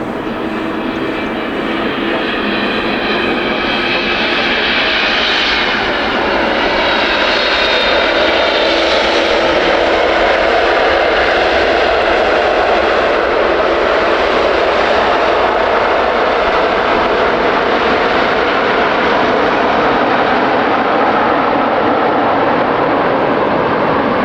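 Jet airliner's engines passing close by: the sound grows louder over the first several seconds, with whining tones that fall in pitch, then stays loud and steady.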